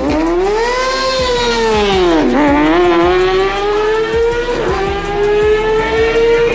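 Superbike engine at high revs. Its pitch swells, drops steeply over the first two seconds, then climbs steadily as the bike accelerates.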